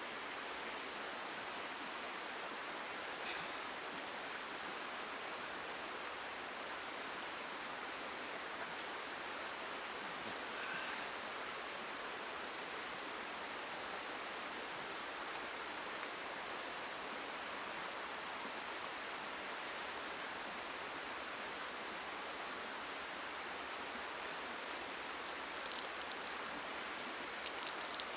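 Steady rush of a flowing river, with a few faint clicks and rustles, most of them near the end.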